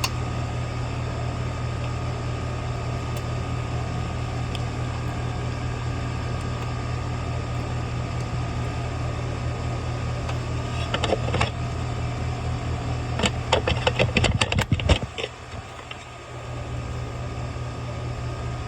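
Steady low mechanical hum, broken by a few sharp clicks and rattles about eleven seconds in and a denser run of clicks a couple of seconds later. Just after the clicks the hum drops away for about a second and a half, then comes back.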